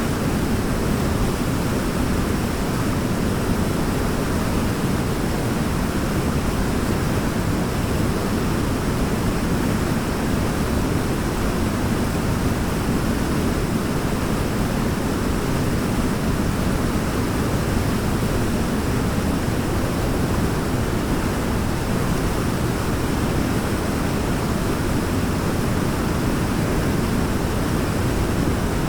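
Waterfall: water pouring and crashing in a steady, even rush, deep-toned and without a break.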